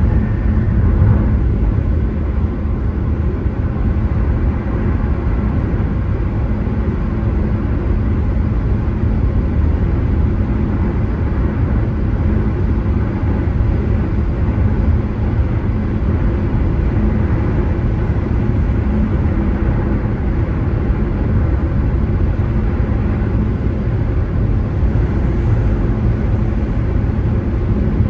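Car driving along the road: a steady rumble of tyre and road noise with the engine underneath, unchanging throughout.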